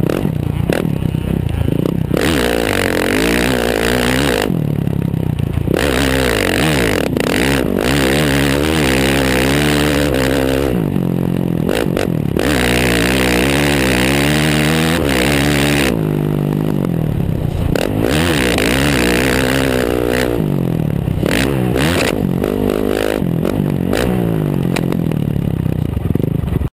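Motocross bike engine revving hard and letting off again and again through a track lap, its pitch climbing and falling with the throttle. The engine note drops away briefly three times. Rattling and scraping runs under it, and the sound cuts off suddenly at the end.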